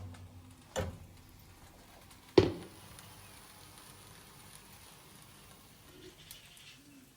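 Kitchen cooking sounds: faint sizzling from a pan, broken by two sharp knocks of cookware. The second knock, about two and a half seconds in, is the loudest and rings briefly.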